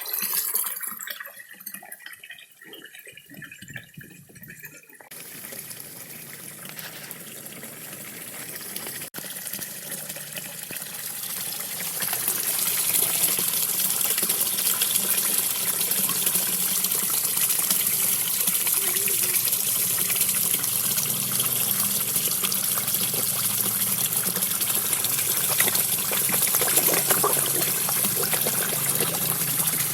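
Small garden waterfall splashing and trickling into a koi pond. It is quiet and patchy for the first few seconds, then builds to a steady, louder rush of water.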